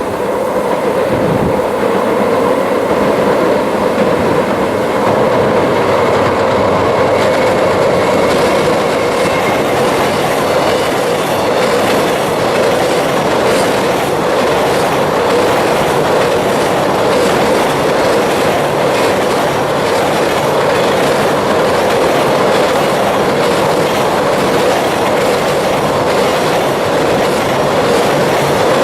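A container freight train hauled by an EF210 electric locomotive crossing a steel railway bridge: a loud, steady rumble and drone from the bridge, with wheels clattering over the rail joints.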